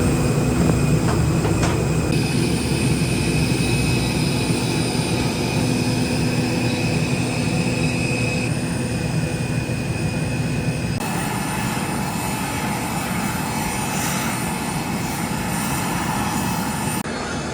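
Airliner engines running steadily, heard from inside the cabin as the aircraft taxis after landing, with a constant drone and several held tones.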